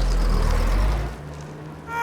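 Car engine running with a deep, steady rumble that cuts off a little over a second in.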